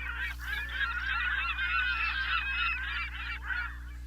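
A flock of geese honking: many overlapping calls at once, which fade out near the end, over a steady low hum.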